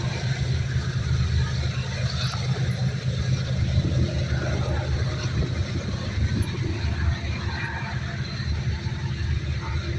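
Union Pacific diesel-hauled manifest freight train passing close by, a steady low rumble with rolling noise that does not let up.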